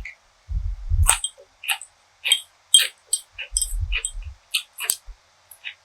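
Close-miked eating sounds: a rapid series of sharp clicks and crackles of food being chewed, with two short spells of dull low thumps.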